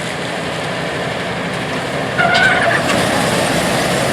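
Vintage farm machinery running in a corn field: steady engine and machine noise that slowly grows louder, with a short high-pitched tone about two seconds in.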